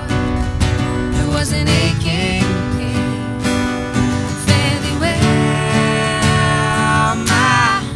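Acoustic guitar strumming in a live folk song, with a wavering melody line over it and no sung lyrics: an instrumental stretch of the song.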